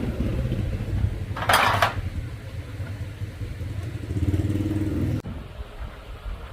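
Motorcycle engine running steadily, with a short hiss about one and a half seconds in and a brief rise near the end before the sound cuts off abruptly.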